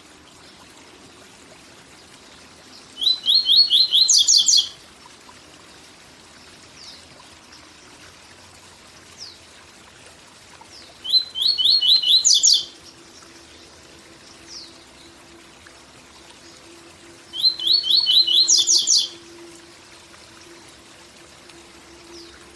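Papa-capim (a Sporophila seedeater) singing the 'tui tui zel zel' song three times. Each phrase is a quick run of repeated high notes ending in a higher trill, with pauses of several seconds between phrases. A steady waterfall rush runs underneath.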